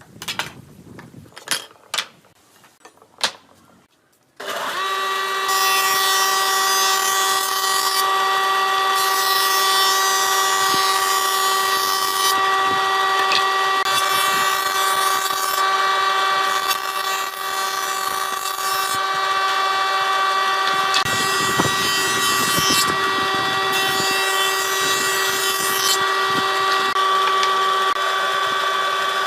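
A few light knocks, then about four seconds in a power tool starts and runs steadily with a whining motor tone. A hissing, cutting noise comes and goes over it, typical of the tool working on pallet wood.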